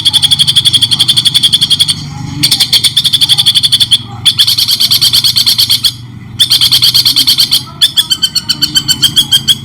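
Songbird song played for masteran training: loud, rapid chattering trills of repeated high notes, about a dozen a second, in bursts of one to two seconds with short pauses between. A faint steady low hum runs underneath.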